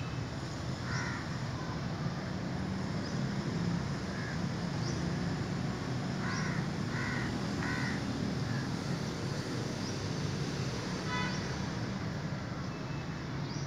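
Outdoor birds calling: a few short separate calls, then three calls in quick succession around the middle, and scattered brief high chirps, over a steady low rumble.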